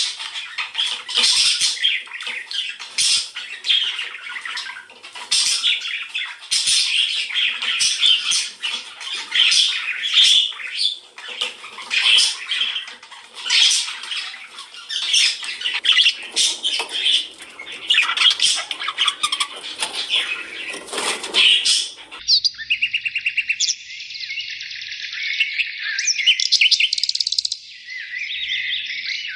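Birds calling: a dense flock of rapid, rasping chattering and squawking calls. About 22 seconds in, this switches abruptly to clear, high trilling and whistled song.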